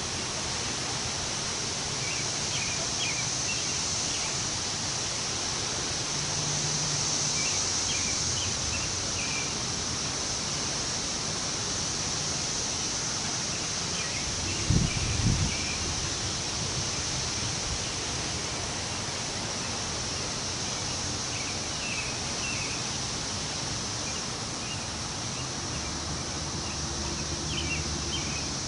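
Wind in the trees, a steady rustling of leaves, with short bird chirps now and then. A brief low thump about halfway through.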